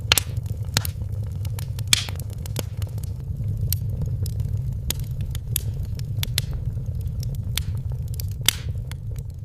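Wood fire crackling in a fireplace: sharp, irregular pops over a steady low rumble of the flames. The sound cuts off abruptly at the very end.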